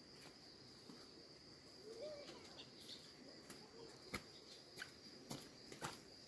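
Faint, steady high-pitched insect trill, with scattered soft clicks and a couple of brief low chirps.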